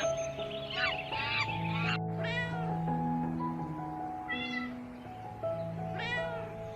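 Domestic cat meowing three times, each meow a short call that rises and falls in pitch, over background music with long held notes. In the first second or so, a few harsh calls from another animal come before the meows.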